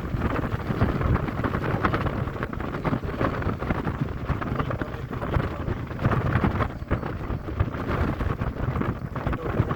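Wind buffeting the microphone while travelling along a road, mixed with the steady rumble of road traffic.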